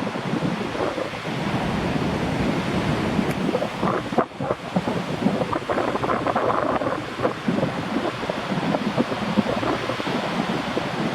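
Typhoon wind gusting and buffeting the microphone in a continuous rush of noise, easing briefly about four seconds in.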